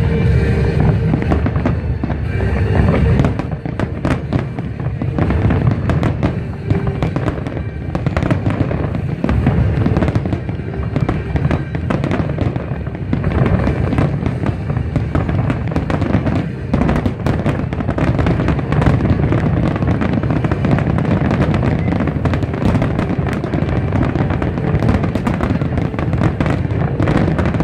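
Fireworks display: a dense, continuous barrage of bangs and crackling with a low rumble under it.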